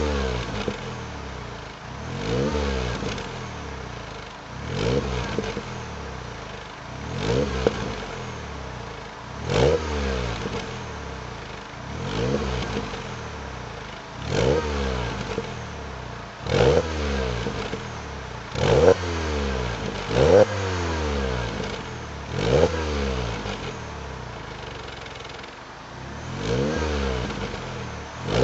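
MINI Cooper R56's 1.6-litre four-cylinder engine with a complete FSW aftermarket exhaust system, revved in short blips about every two seconds, the pitch rising quickly and falling back each time, with a longer gap near the end.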